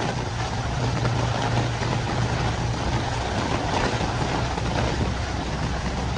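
A motor vehicle's engine running nearby, a steady low hum, over the hiss of rain falling on the city street.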